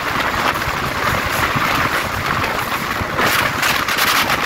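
Passenger train running on the track: a steady, loud rush of noise that grows stronger about three seconds in.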